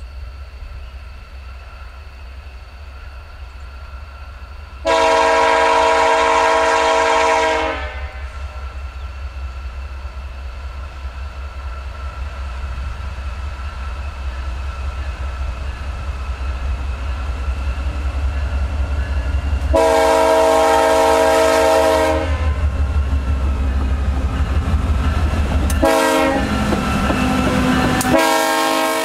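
Freight train led by diesel locomotives approaching and passing close by, the engines' low rumble growing louder as they near. The locomotive's multi-note air horn sounds a long blast about five seconds in, another around twenty seconds in, a short toot, then a further blast starting near the end.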